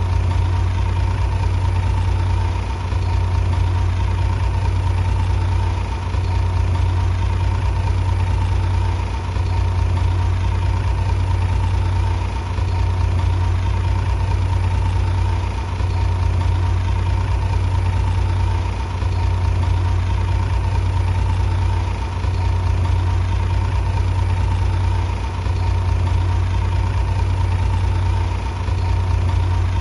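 Bulldozer's heavy diesel engine running steadily with a low hum, dipping briefly about every three seconds.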